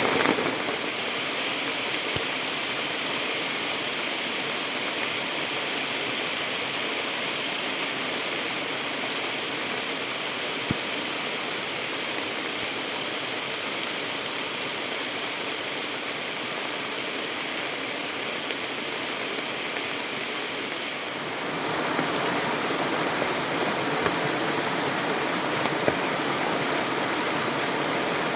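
A rain-swollen stream rushing fast, a steady even roar of water. It gets louder after a sudden change about three-quarters of the way through.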